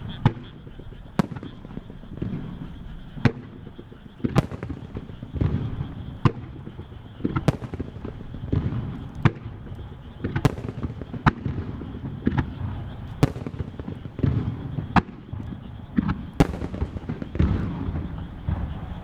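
Starmine fireworks barrage: aerial shells bursting in quick succession, with a sharp bang about once a second over a constant low rumble of further bursts and launches.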